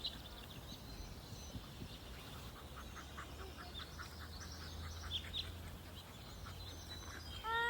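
Faint outdoor birdsong: scattered short, high chirps from small birds over a low, steady rumble.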